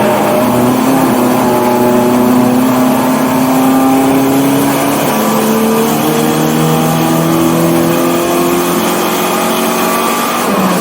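1984 BMW 318i's four-cylinder engine pulling hard on track. Its pitch climbs steadily, drops with an upshift about halfway through, climbs again and drops with another shift near the end.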